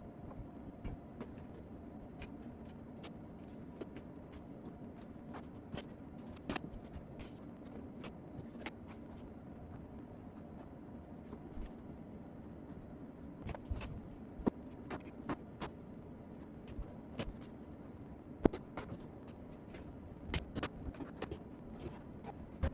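Scattered light clicks and knocks, irregularly spaced and more frequent in the second half, with one sharper knock near the end, over a steady low hum.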